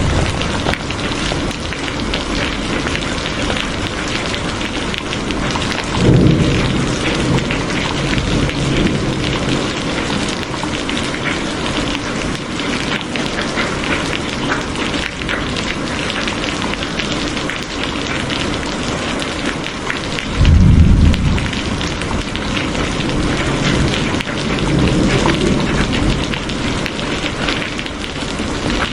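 Steady heavy rain hissing, with rolls of thunder. One rumble breaks in sharply about six seconds in, the loudest comes about two-thirds of the way through, and a longer, softer one follows near the end.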